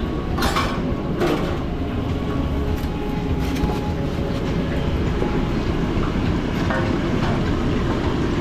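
Steady, loud, low machine rumble of food truck kitchen equipment running, with a few short clattering knocks in the first few seconds.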